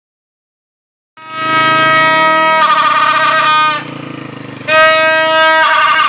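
A loud horn-like tone in two long blasts, each held steady and then warbling, with a short gap between them.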